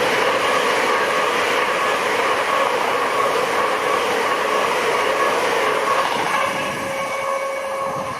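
A passing train: steady loud rail noise with a faint whine, fading away in the last couple of seconds.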